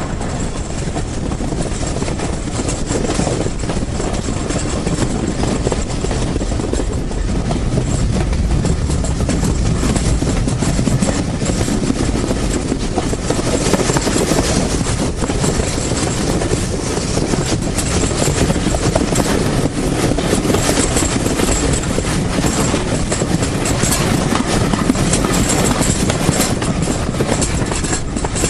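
Steam-hauled train running along the line: a steady, dense rumble of wheels on rail and carriage noise, a little louder after about eight seconds.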